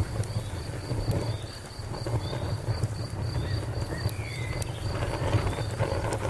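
Fire crackling, with a steady low rumble and sharp pops now and then. A cricket chirps in a steady rhythm of about five pulses a second.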